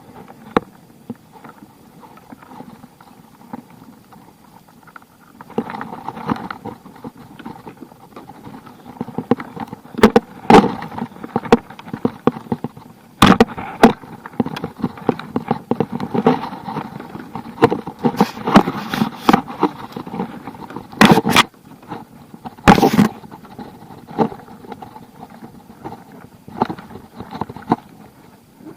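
Water splashing and sloshing around a fishing kayak at sea, with many irregular sharp knocks and clatters against the hull, the loudest a few single bangs in the middle stretch.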